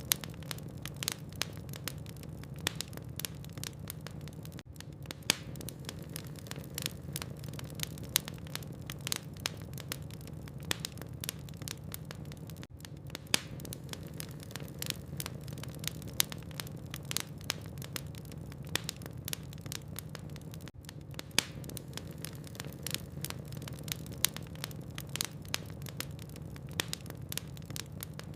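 Wood logs burning in a fireplace, crackling with frequent irregular sharp pops over a steady low hum.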